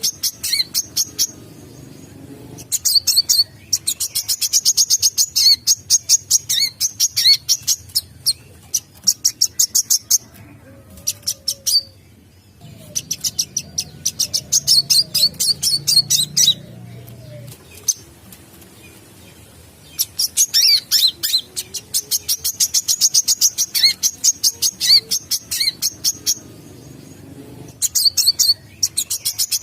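Brown-throated sunbird (kolibri kelapa) singing: rapid runs of high, thin chirps in bursts of a few seconds with short pauses between them. This is a recording played as a lure call.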